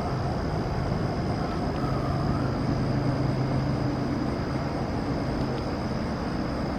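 A steady low mechanical hum and rumble, with a thin, steady high-pitched whine above it.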